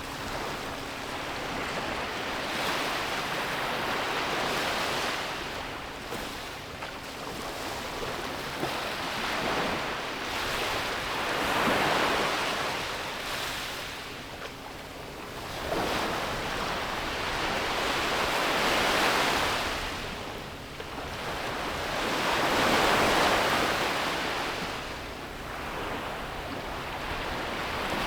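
Sea waves breaking and washing up a beach, rising and falling in slow surges every few seconds, with the loudest breakers about halfway through and again near the end.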